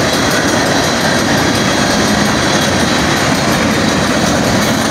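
Norfolk Southern freight train's tank cars and boxcars rolling past: a loud, steady rumble and rattle of steel wheels on the rails.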